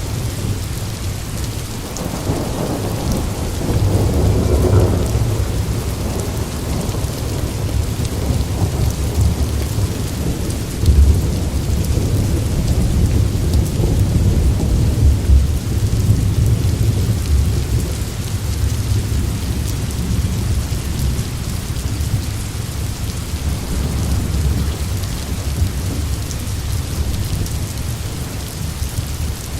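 Steady rain with rolling thunder: a long, low rumble builds about two seconds in and keeps rolling, with its loudest swells in the first third and again through the middle.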